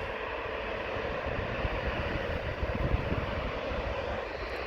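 Steady jet engine noise from an airliner on a runway, heard at a distance.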